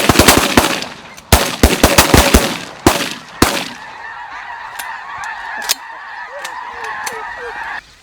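Several hunters firing shotguns at decoying snow geese: a rapid volley, a second volley about a second in, and two last single shots around three seconds in. A flock of snow geese honks throughout and keeps calling after the shooting stops, until the sound cuts off abruptly near the end.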